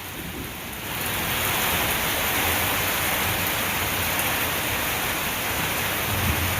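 Heavy thunderstorm downpour: a steady hiss of rain falling hard, a little quieter for the first second before settling at full strength.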